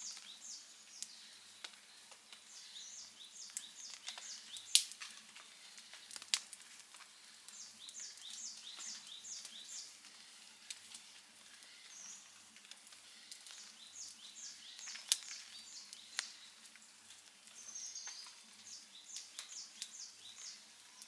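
Campfire of burning wood crackling, with sharp, irregular pops, the loudest about five seconds in and again about fifteen seconds in. Runs of quick, high chirps recur in the background every few seconds.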